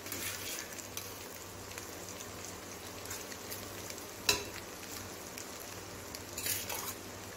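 Chicken masala sizzling steadily in a steel pot under a layer of rice, with a perforated steel skimmer clicking sharply against the pot once about four seconds in and scraping through the rice near the end.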